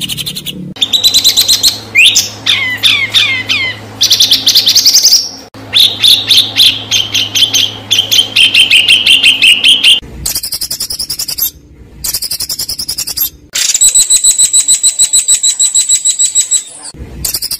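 Songbird calls of a bird-song training track for contest birds, harsh and sharp: fast, rapidly repeated chattering notes and high trills, with a run of quick descending whistles about two seconds in. The sound breaks off abruptly between short spliced segments several times.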